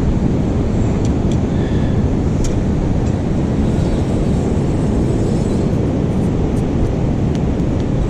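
Wind buffeting the camera microphone, a loud steady low rumble, with a few faint sharp clicks.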